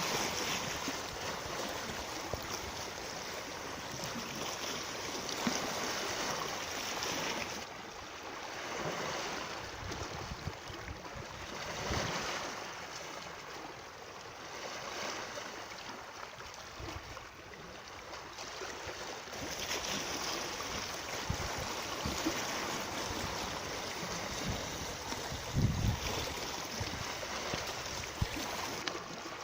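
Steady rush of flowing water, with a few brief low bumps, the strongest a little before the end.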